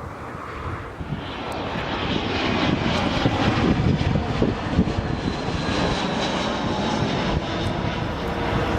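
Jet aircraft engines, swelling over the first couple of seconds and then running loud and steady, with a thin high whine.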